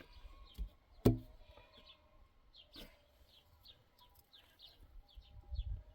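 Small birds chirping in short, repeated high notes, with one sharp knock about a second in and a fainter click later.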